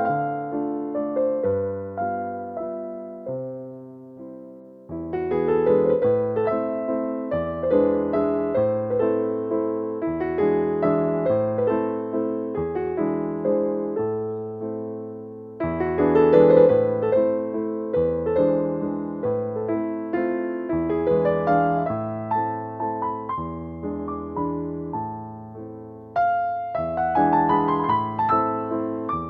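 Gentle solo piano music, slow and soft, with a few abrupt joins where the phrase restarts.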